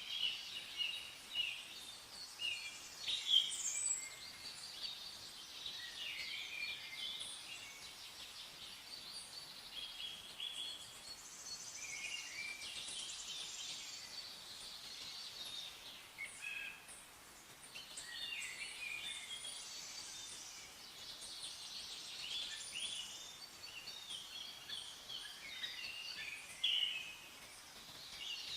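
Many small birds chirping and trilling at once, a steady chorus of short, high calls throughout.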